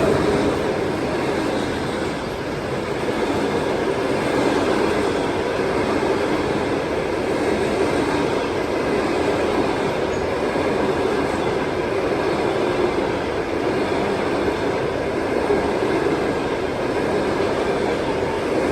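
Passenger train rolling past at speed, hauled by a ChS7 electric locomotive: a steady, loud rolling noise of the coaches' wheels on the rails.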